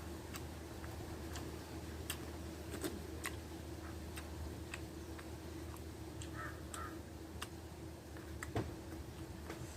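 Close-up eating sounds from chewing rice and dried fish: irregular small clicks and smacks from the mouth, over a steady low hum, with two short high calls a little past the middle.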